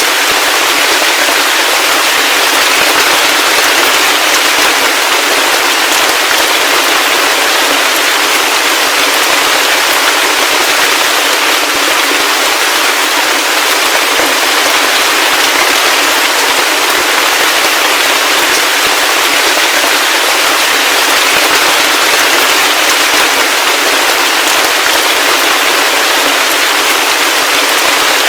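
Heavy rain falling steadily: a dense, even hiss of fine, crackling drops, with no deep rumble underneath.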